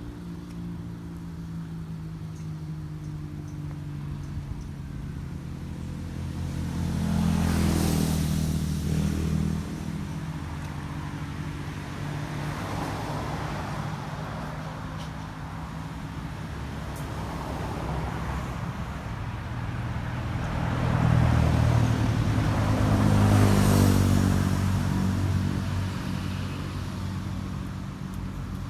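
Motor vehicles passing by: a steady low engine hum, with one vehicle swelling past about 8 seconds in and another, louder, around 21 to 24 seconds in.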